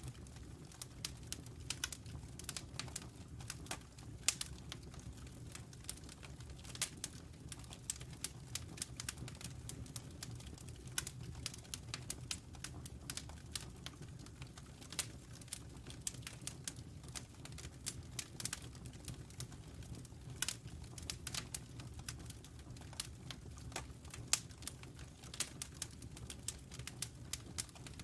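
Wood fire crackling in a fireplace: frequent irregular sharp pops and snaps from the burning logs over a steady low rumble of the flames.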